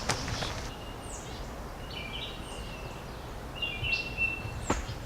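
Birds calling: short, high, downward-sweeping chirps and a few held whistled notes, over steady outdoor background noise. There is a sharp click right at the start and another near the end.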